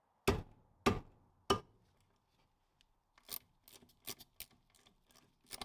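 Three heavy knocks about half a second apart, then a run of lighter irregular clicks and clatters, from hand work stripping the brake backing plate and stub axle off a Land Rover Series 2 front swivel housing.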